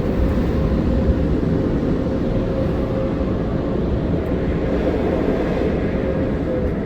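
Belanger Airstream car wash dryer blowers running: a loud, steady rushing of air with a held hum, whose pitch begins to sink near the end as the level starts to drop.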